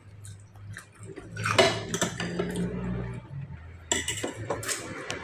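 Dishes and cutlery clinking and clattering, with a few louder clanks about a second and a half in and again near the end.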